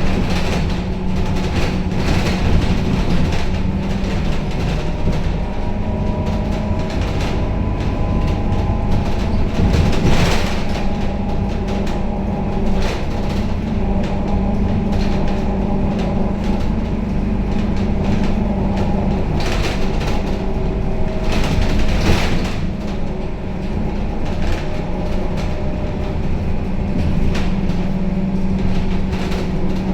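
Scania K270UB city bus heard from inside the passenger cabin while driving: a steady engine hum over road noise and body rattles, with the engine note shifting in pitch partway through and louder jolts about 10 and 22 seconds in.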